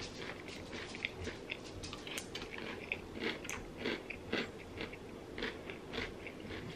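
A person chewing a mouthful of crunchy cereal, Oreo cereal and bran flakes in milk, with irregular crisp crunches.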